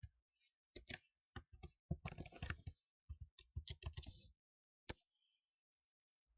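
Typing on a computer keyboard: irregular runs of keystroke clicks, with quick flurries in the middle. The typing stops about five seconds in.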